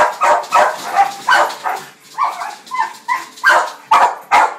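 Australian Shepherd barking rapidly and excitedly, about two to three barks a second, breaking into a short run of higher yips about halfway through before the barking resumes.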